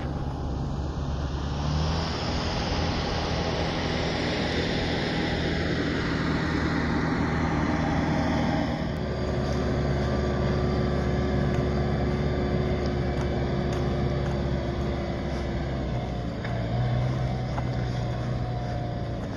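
A motor vehicle's engine running close by, holding a steady pitch with a few shifts up and down.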